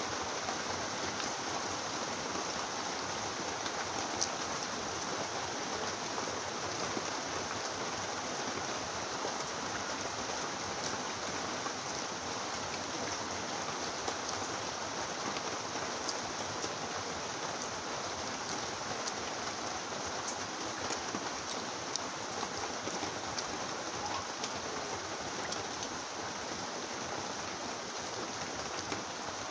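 Heavy rain falling steadily, with a few faint sharp ticks now and then.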